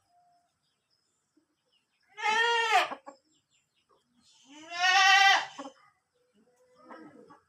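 A goat bleating twice, two loud wavering calls, the second one longer.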